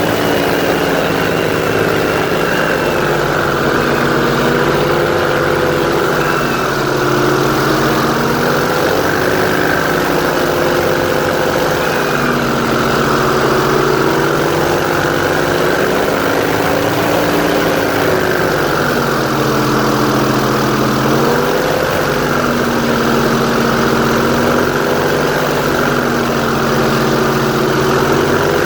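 Airboat engine and its large air propeller running under way, a loud steady drone whose pitch rises and falls a little every few seconds as the throttle changes.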